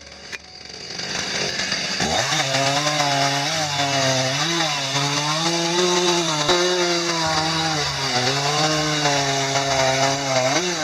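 Chainsaw speeding up about two seconds in and then running at high speed through wood, its pitch dipping and recovering as the chain bites.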